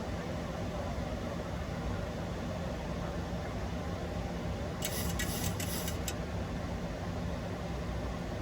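Steady flight-deck noise of a Boeing 737-800 on approach: rushing airflow and engine drone with a low hum under it. About five seconds in there is a brief crackling hiss lasting a little over a second.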